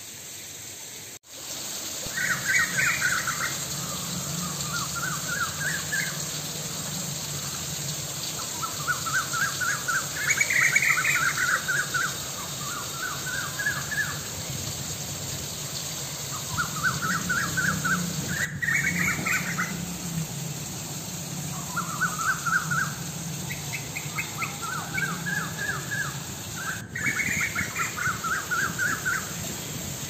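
A bird singing short phrases of quick, rising notes, repeated every couple of seconds, over a steady background hiss. The song starts about two seconds in, after a brief dropout.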